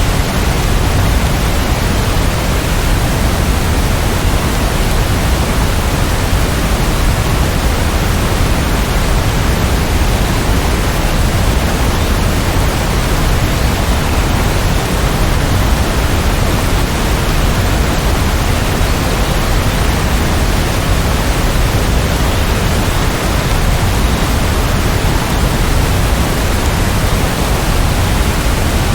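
Steady rainfall, an even unbroken hiss with no separate drops, thunder or changes.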